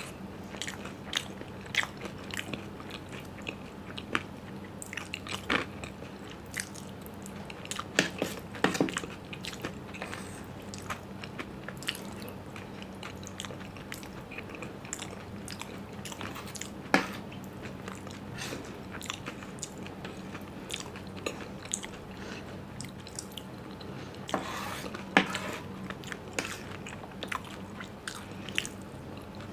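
Close-up mouth sounds of someone eating soggy, curd-soaked golgappe (dahi puri): wet chewing and biting with many short clicks and smacks, a few louder ones about 8 seconds in, midway and near the end.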